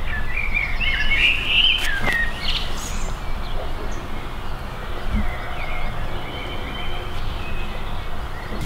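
Small birds chirping and twittering in quick gliding notes, busiest in the first two seconds and again more faintly later, over a steady low rumble. A single sharp click comes about two seconds in.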